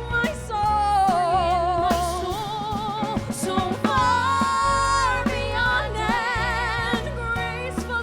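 Musical theatre song with sung notes held long, with vibrato, over a band accompaniment with bass and drums.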